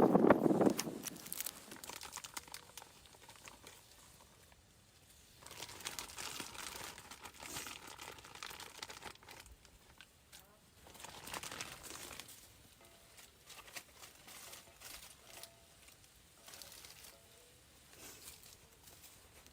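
A short thump right at the start, then irregular bursts of crinkling and rustling, as of something being handled, with quieter stretches between them.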